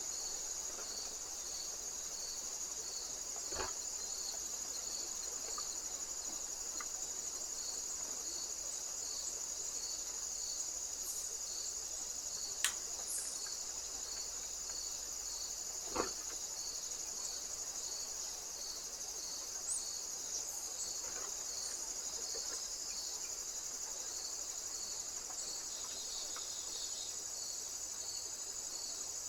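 Crickets chirping: a steady high-pitched trill with a second, pulsed chirp repeating about one and a half times a second. A few short sharp clicks sound over it, the loudest about halfway through.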